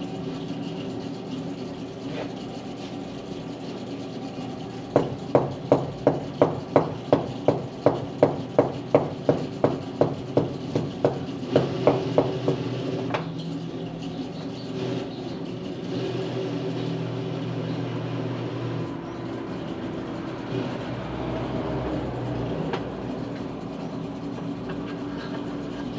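A hammer striking metal in a steady run of about twenty blows, roughly three a second, for several seconds, over a continuous electrical hum.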